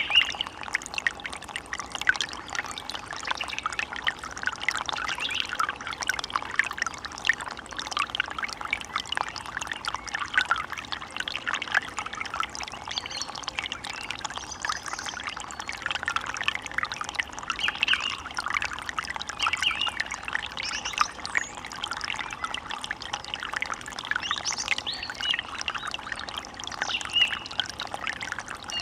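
Running water trickling and splashing steadily, like a small stream, with a few short bird calls now and then.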